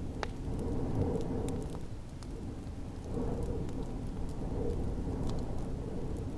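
Wood fire crackling in a fireplace, with scattered sharp pops, over the steady low rumble of snowstorm wind.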